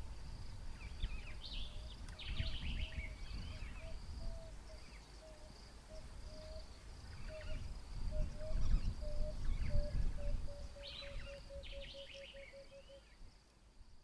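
Birds calling in woodland: clusters of high chirping come and go over a steady high insect-like tone, and a low piping note repeats about twice a second, quickening into a fast run near the end. A low rumble swells in the middle.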